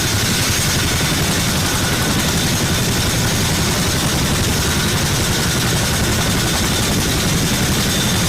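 Military helicopter running steadily close by, with a fast, even rotor beat under a faint, steady turbine whine.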